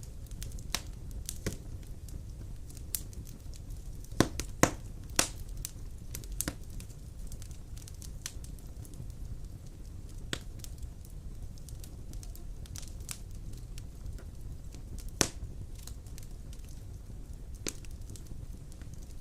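Wood fire of large logs crackling in a stone fireplace: a low steady rumble with irregular sharp pops. There is a cluster of loud pops about four to five seconds in and another loud pop about fifteen seconds in.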